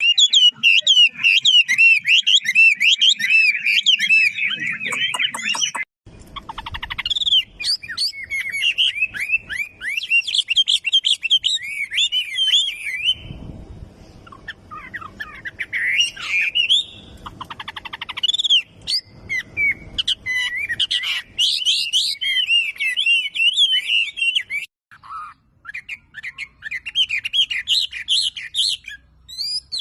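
A songbird kept as a pet sings a fast, continuous warbling song of rapid varied phrases and quick trills. The song breaks off abruptly a couple of times.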